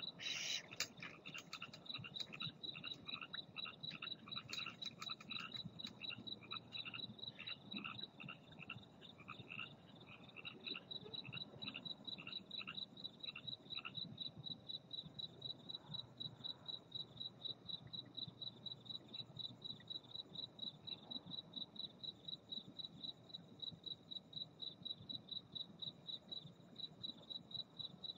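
A cricket chirping steadily and rapidly, about three or four chirps a second, with frogs croaking in quick repeated calls through the first half that die away about halfway through.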